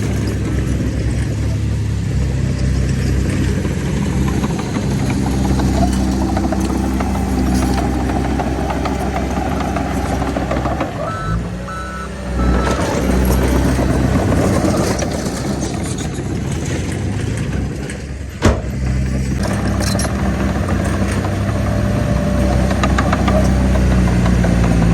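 Heavy diesel earthmoving machinery running steadily. A few short reversing beeps sound about 11 seconds in, and a single sharp knock comes about 18 seconds in.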